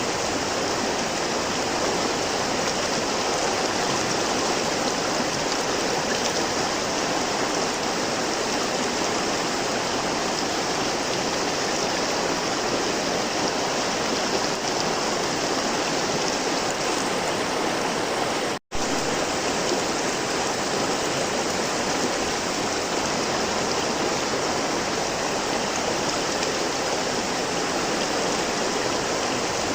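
A river flowing in a steady, even rush of water. It cuts out for an instant about two-thirds of the way through, then carries on unchanged.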